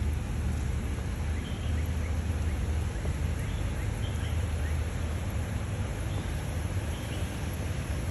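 Outdoor background noise: a steady low rumble with a few faint, short bird chirps.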